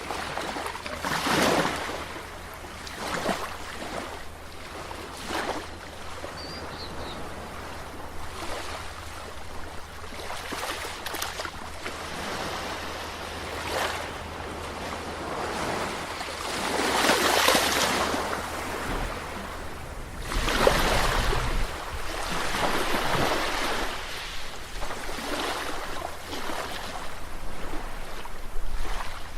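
Sea waves washing and splashing against the shore in irregular surges, with louder washes about 17 and 21 seconds in.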